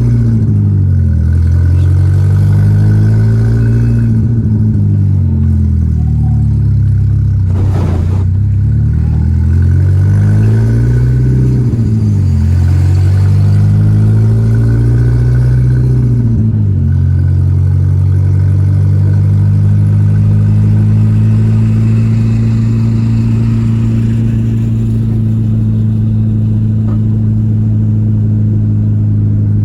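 Volkswagen Gol G4 Rallye's four-cylinder engine while driving: the revs rise and fall several times as it accelerates and shifts gears, with a brief knock about eight seconds in, then hold steady at a constant cruise from about halfway on.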